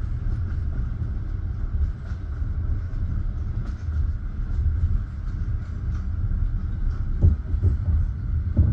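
Passenger railway carriage rolling along the track: a steady low rumble of wheels on rails, with a couple of sharp wheel knocks near the end.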